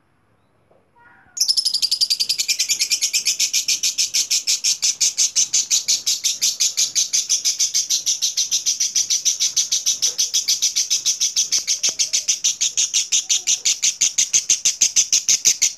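A lovebird giving its long ngekek chatter: a rapid, unbroken string of high-pitched chirps that starts about a second and a half in and keeps going.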